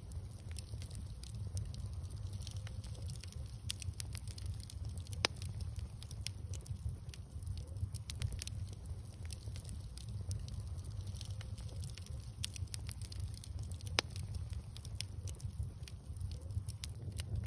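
Wood bonfire crackling with many small pops, two sharper snaps about five and fourteen seconds in, over a steady low rumble.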